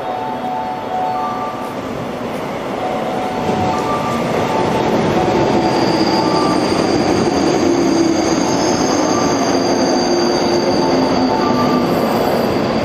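JR Hanwa Line 103-series electric commuter train running on rails. Its noise builds about three and a half seconds in, with a steady high wheel squeal over a lower hum.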